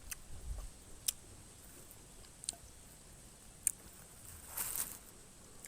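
Faint mouth sounds of someone eating miang mak duea (a fig snack): a few separate soft clicks and smacks, then a brief hissy sound a little before the end.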